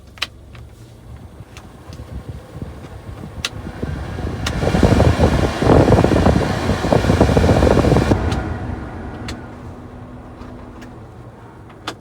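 Suzuki Carry kei truck's three-cylinder engine running. It rises to a loud, rough stretch from about four and a half to eight seconds in, then settles back, with a few sharp clicks scattered through.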